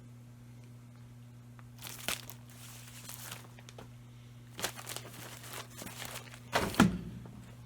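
Paper and plastic packaging crinkling as it is handled, in several short rustles, the loudest a little before the end, over a steady low electrical hum.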